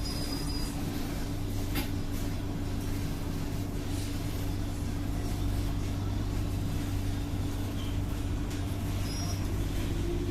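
Steady hum and low rumble of a C151A MRT train standing at a station platform, with one faint click about two seconds in.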